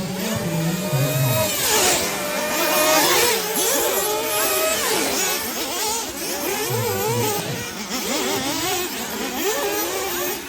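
Several 1/8-scale nitro off-road RC buggy engines running at once, their high-pitched whine rising and falling as the cars accelerate and brake around the track.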